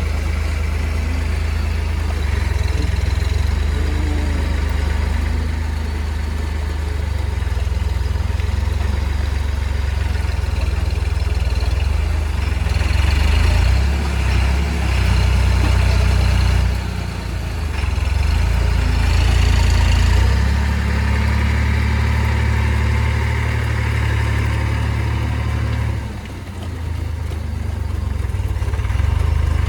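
Heavy vehicle engine running steadily with a low drone, its load easing off briefly twice before picking up again.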